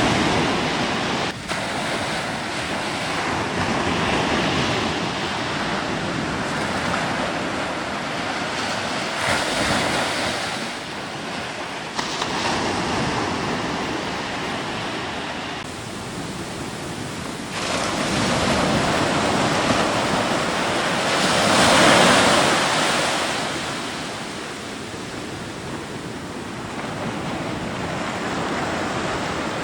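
Rushing noise like surf and wind, swelling and easing every few seconds, with a few sudden changes in level.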